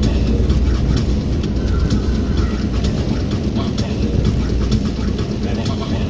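Steady low rumble of a moving vehicle, with many small irregular ticks over it like rain pattering on the body.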